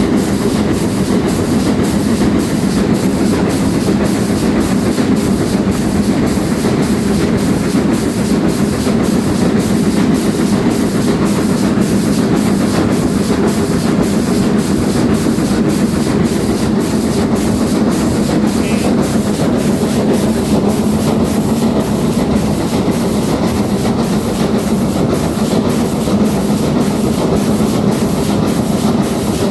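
Steam-hauled passenger train running at steady speed behind GWR Castle class 4079 Pendennis Castle: a constant rumble with a regular beat a little under twice a second.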